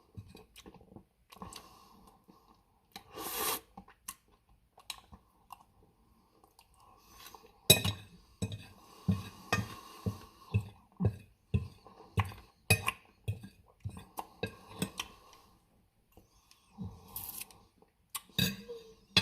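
Close-up chewing and eating of ice cream cake, with a steady run of chewing strokes about two a second through the middle, and light clinks of a utensil against the dish.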